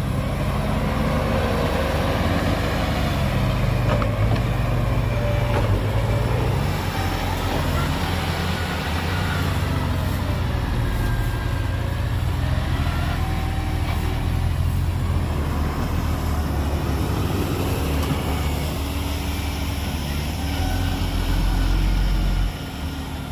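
Heavy construction vehicle's diesel engine running hard, its pitch rising and falling as it revs. The sound drops off suddenly near the end.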